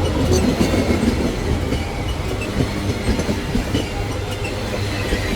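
Loaded freight train's wagons rolling past close by: a steady heavy rumble with the clatter of wheels over the rails.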